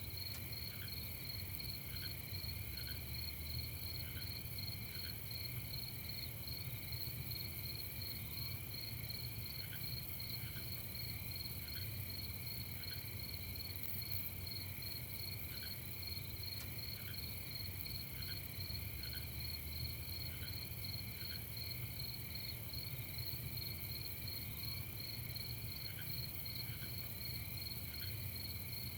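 A chorus of crickets chirping steadily at night: a fast, even pulsing chirp sits over a lower continuous trill, with scattered faint single chirps from another insect. A soft low rumble runs underneath.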